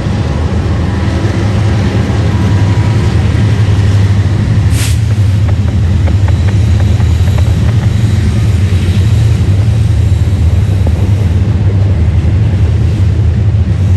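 Diesel freight locomotives running past close by, a loud steady engine rumble, with a brief hiss about five seconds in.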